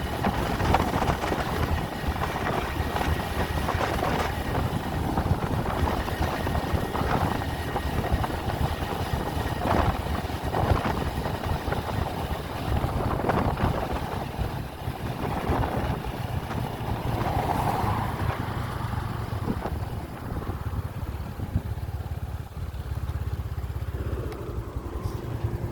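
Steady rumble of a road vehicle on the move, with gusty wind noise on the microphone.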